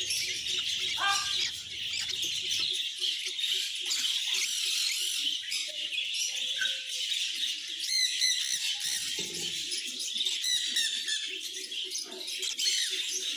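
Many small cage birds chirping and twittering at once in a steady, high-pitched chorus, with a couple of squealing calls near the start.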